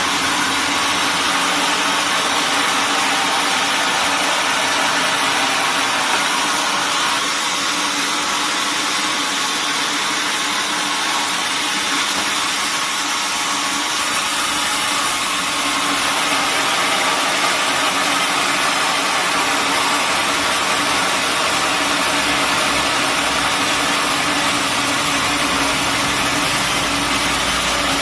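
Sawmill machinery running steadily: a loud, even mechanical noise with a constant hum underneath, growing deeper near the end.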